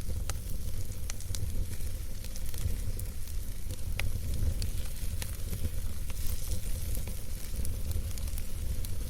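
Wood campfire burning: soft crackles and sharp pops of the burning wood, irregular and scattered, over a steady low rumble.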